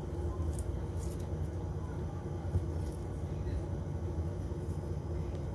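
Steady low background hum, with a few faint light taps over it.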